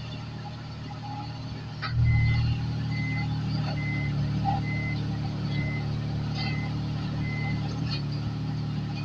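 A vehicle engine starts up about two seconds in and runs steadily, while a short high electronic beep repeats about once every 0.8 seconds for several seconds, like a reversing or warning beeper.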